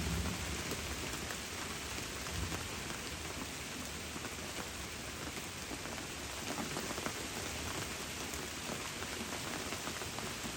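Steady rain falling, a dense even hiss dotted with the patter of individual drops.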